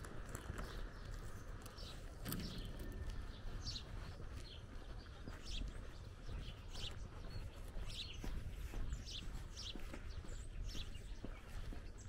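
Small birds chirping in short, scattered calls, over a low steady rumble, with a few faint footsteps on the asphalt lane.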